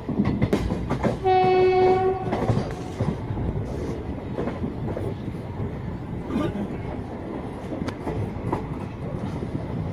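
Passenger train running behind an electric locomotive: one horn blast a little over a second long, about a second in, over the steady rattle and rumble of the coaches with wheel clicks on the rail joints.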